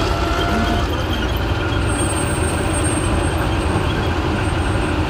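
K1 main battle tank's diesel engine and tracks running steadily, a heavy sound concentrated low down, with a faint high whine that comes and goes.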